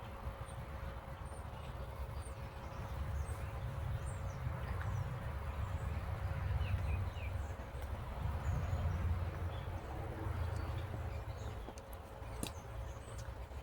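Outdoor ambience: a low, uneven rumble that swells in the middle, with a faint steady hum, scattered faint high chirps and one sharp click near the end.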